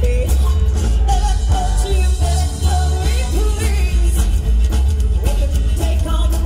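Live rock-and-roll band playing with a singer's voice over a heavy, steady bass.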